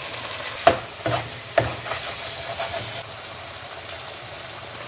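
Chicken, masala and lentils sizzling in a wok while a spatula stirs them, knocking against the pan three times in the first couple of seconds.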